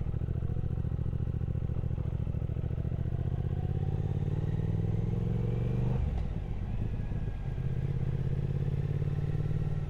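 Triumph Speed Twin 1200's parallel-twin engine pulling under way. It rises slowly in pitch for about six seconds, dips briefly as it shifts up a gear, then runs steadily again.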